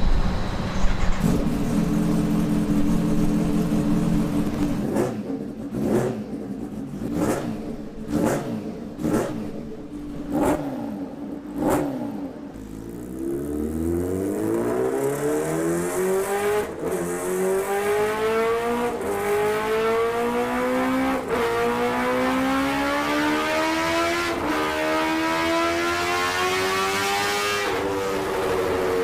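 Kawasaki Ninja sport bike's exhaust: a steady running note, then a string of short sharp throttle blips about a second apart. Then the engine pulls hard through the gears, its pitch climbing and dropping back at each of about five upshifts.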